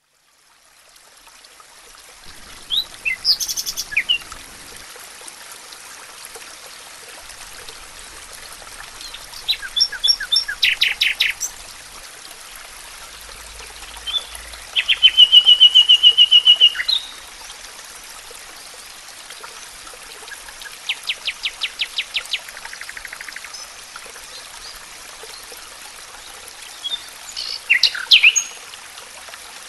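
Wild birds singing in forest: short song phrases every few seconds, the loudest a fast, even trill about halfway through and another rapid trill a little later, over a steady background hiss.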